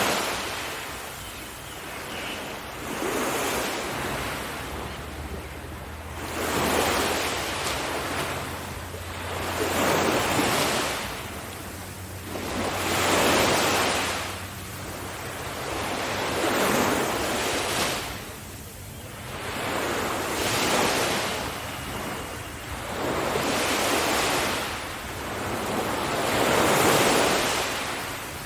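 Sea waves breaking on a beach and washing back, in regular surges about every three to four seconds.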